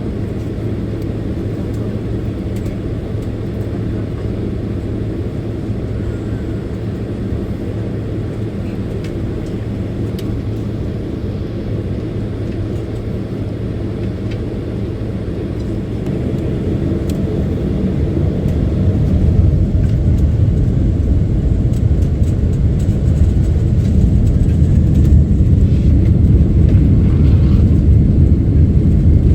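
Boeing 767-300ER jet airliner heard from inside the cabin: a steady low engine rumble that grows louder about halfway through and stays louder.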